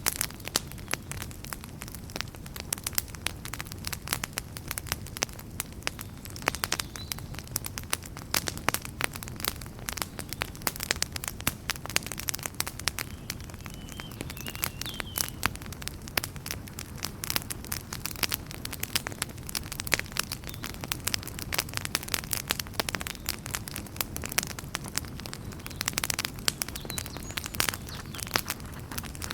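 Wood campfire crackling steadily: a dense run of sharp pops and snaps over a low, even rush of burning flames.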